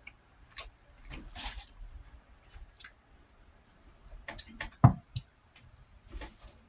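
Small eating noises at a table: scattered mouth clicks and light taps, a breathy hiss about a second and a half in, and one sharp knock just before the five-second mark.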